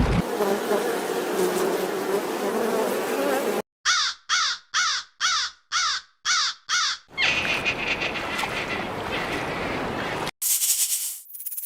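An animal calling about seven times in quick succession, each call rising then falling in pitch, between stretches of steady noisy background.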